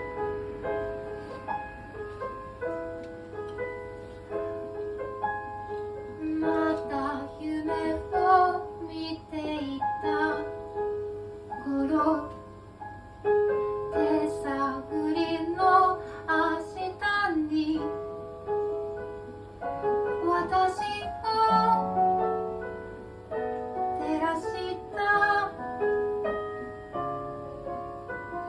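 A song: piano-like keyboard chords, joined about six seconds in by a woman singing the melody over them.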